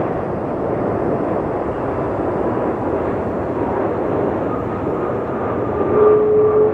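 Jet engine noise from an arriving AirAsia X Airbus A330, a steady dense rush; about six seconds in a steady whine comes in and the sound grows louder.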